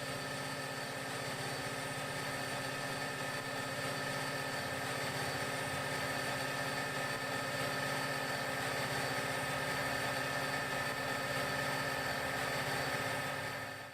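Diesel locomotive engine running steadily, with a fine low throb and several steady whining tones, cutting off suddenly at the end.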